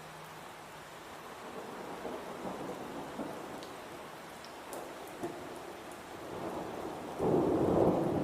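Recorded rain falling steadily with thunder rumbling. The rumble swells gradually, then breaks into a much louder roll about seven seconds in.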